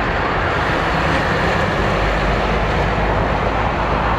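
Jet airliner engines running, a steady loud rumble and roar with a faint whine above it.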